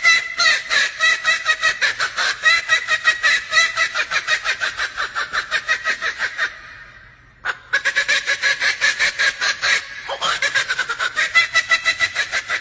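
Male laughing kookaburra giving its laughing call: a long run of rapid, loud cackling notes that breaks off about six and a half seconds in and starts up again a second later.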